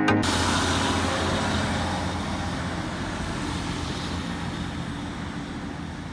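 Train running, a steady rumble and hiss that slowly fades over a few seconds.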